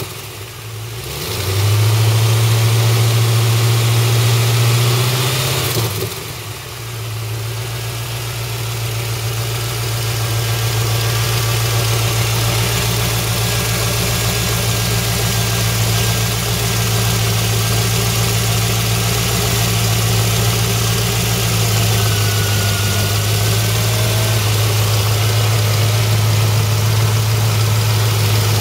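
1989 Corvette L98 5.7-litre V8 with tuned port injection, its throttle worked by hand at the throttle body. The engine dips, runs louder at a slightly raised speed for about four seconds, then drops back about six seconds in and idles steadily.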